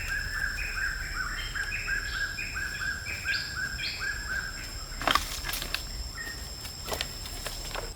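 A bird calling in a fast repeated series of short chirps, about two to three a second, that stops about four seconds in. A steady high whine runs underneath, and there is a sharp click about five seconds in and a fainter one near seven.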